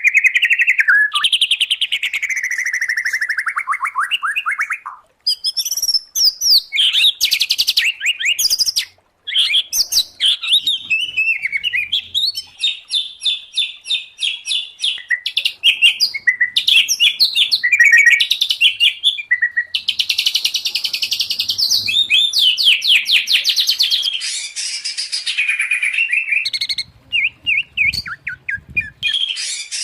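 White-rumped shama, oriental magpie-robin and greater green leafbird singing together: loud, varied song of fast trills, chattering runs and sweeping whistles, with short breaks about five and nine seconds in.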